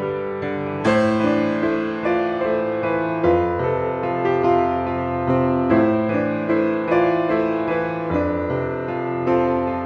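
Background piano music: slow, sustained chords and notes struck about once a second, each ringing on and fading.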